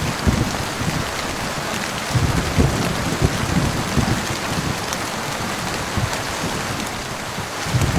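Heavy rain falling steadily, with a low rolling rumble of thunder under it that dies away in the second half.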